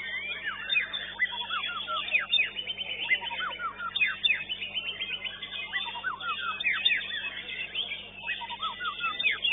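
White-rumped shama (murai batu) singing a rapid stream of sharp whistled notes, many of them quick downward swoops, with notes overlapping almost without pause.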